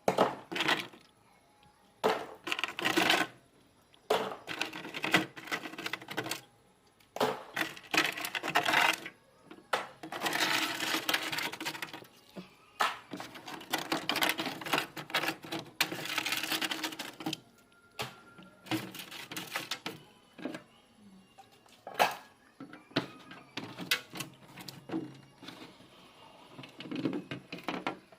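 Irregular bursts of scraping, knocking and clattering of hard objects, with short pauses between them, as ice and frost are cleared out of a refrigerator's freezer.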